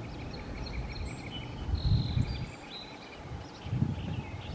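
Outdoor ambience of small birds chirping and twittering in short high notes, over low wind buffeting on the microphone that swells about two seconds in and again near the end.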